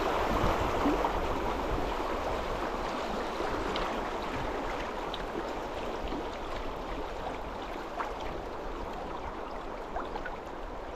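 Flowing river water: a steady rushing with scattered small ticks and splashes, slowly fading.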